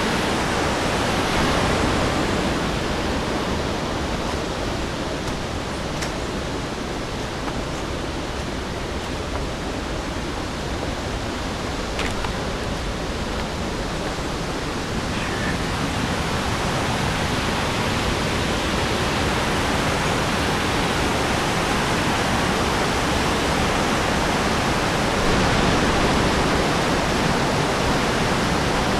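Rushing river water, a steady full wash of noise.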